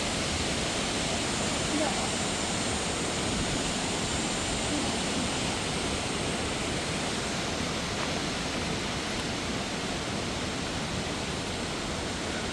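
Steady rushing of mountain water, an even hiss with no breaks.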